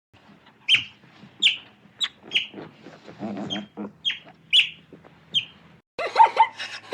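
A bird giving short, sharp chirps, about nine of them in five seconds, each a quick downward sweep. A different animal sound starts abruptly near the end.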